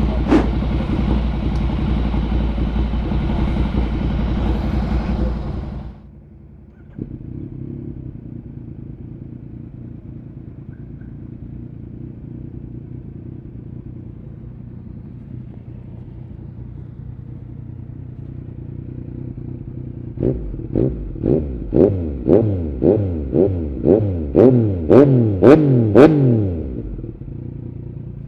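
2016 Yamaha MT-09's 847 cc inline-three with an Arrow aftermarket exhaust. A loud, dense running sound drops off suddenly about six seconds in, and a single knock comes about a second later. Then the engine idles steadily until it is blipped about a dozen times in quick succession, each rev rising and the blips getting louder, and it settles back to idle.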